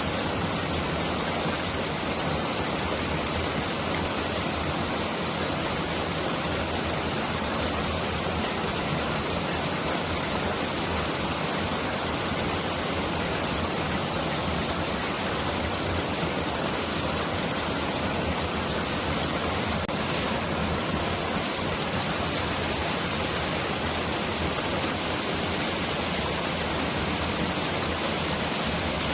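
Mountain stream rushing over rocks in a steady, dense roar, like heavy rain.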